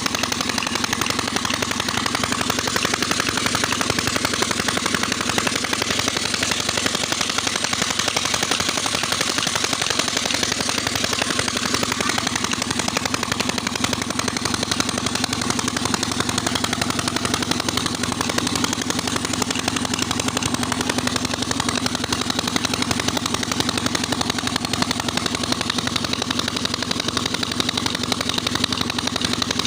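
25-year-old Petter-type diesel engine driving a tubewell pump, running steadily with a rapid, even beat.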